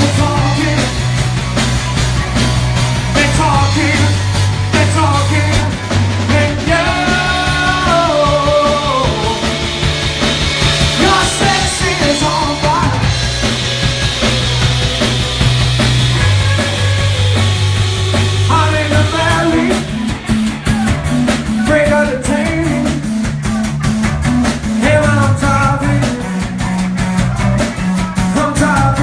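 Rock band playing a song: a singer over held bass notes, guitar and steady drums.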